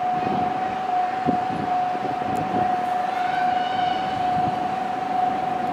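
Nankai electric train passing through a station without stopping, with steady running noise throughout. A steady high-pitched tone runs over the noise, and fainter rising whines come in about three seconds in.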